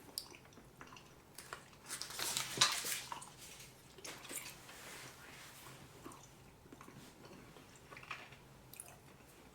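Faint, irregular chewing of a piece of salt water toffee, loudest about two to three seconds in.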